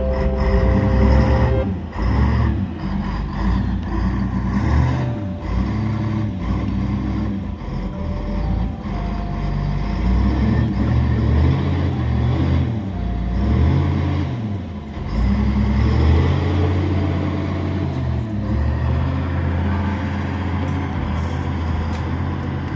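An engine revving up and down over and over, its low note rising and falling every second or two, then running more steadily near the end.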